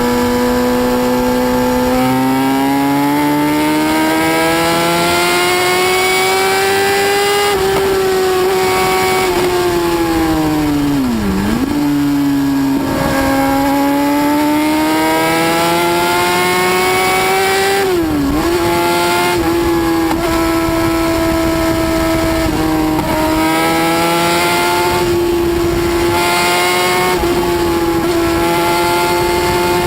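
High-speed motorcycle engine revving hard with a high-pitched whine. Its pitch climbs and falls with the revs, drops sharply and recovers twice, near a third of the way in and again past halfway, then holds high and fairly steady.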